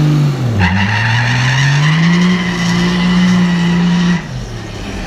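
Diesel pickup truck doing a burnout: the engine revs up and holds high while the rear tyres squeal steadily, the squeal cutting off suddenly about four seconds in as the revs drop.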